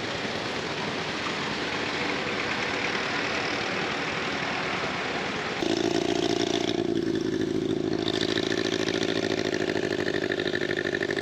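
Veteran vehicle engines running: a dense rushing noise for the first half, then an abrupt change about halfway to one engine running steadily with a fast, even beat.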